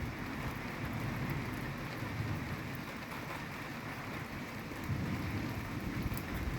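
Steady rain, with the low rumble of thunder underneath that swells again about five seconds in.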